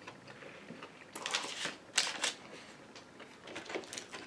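Eating sounds close to the microphone: chewing and lip smacking on a crispy spicy fried chicken sandwich, with a few short crackly noises, the loudest about two seconds in.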